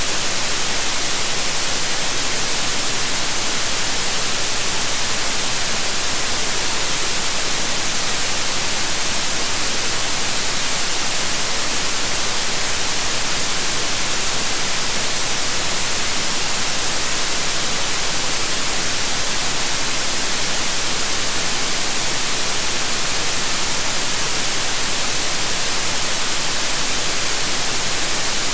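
Steady, unchanging white noise: an even hiss across all pitches, strongest in the highs, with no change in level.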